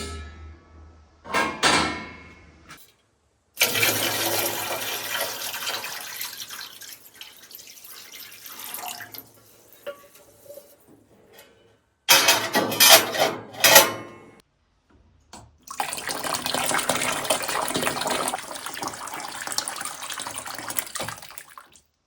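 Water pouring and splashing in several separate stretches that start and stop abruptly.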